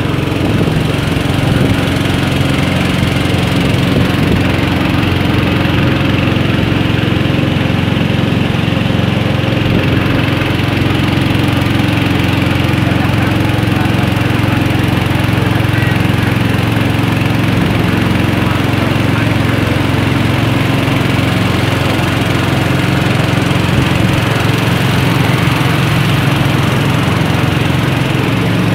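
Small boat's engine running steadily at a constant speed, a loud, even drone that does not change pitch.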